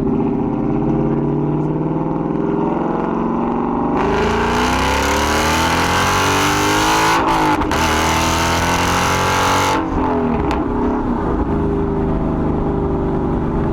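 Ford Mustang GT's 5.0 Coyote V8 through a Corsa Xtreme cat-back with double X-pipe, revving up under acceleration. From about 4 s in a harder, louder pull adds a rushing noise, broken briefly twice around 7 seconds. Then it eases off, with a sharp pop about 10 seconds in.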